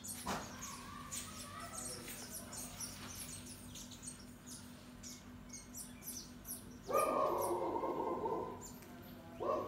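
Small birds chirping over and over. About seven seconds in, a louder sound starts and fades over a second and a half, and a brief one follows near the end.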